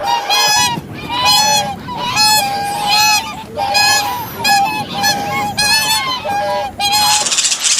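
A swan honking over and over, a long series of short nasal honks, about two a second.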